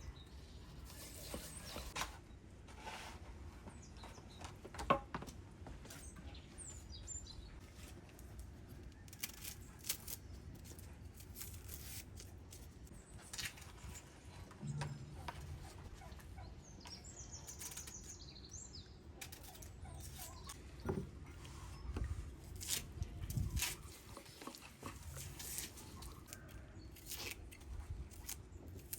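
Scattered small knocks and clicks, with a bird chirping briefly twice in the background.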